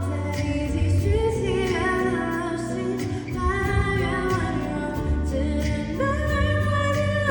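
A woman singing a slow pop song live over a band with a steady bass line, holding long notes.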